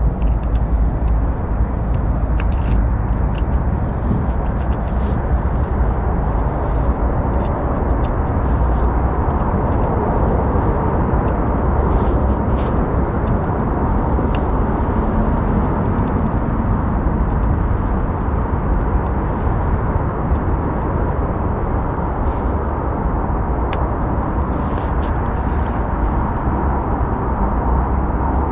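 Audi A5 Cabriolet making scattered, irregular clicks over a steady low rumble.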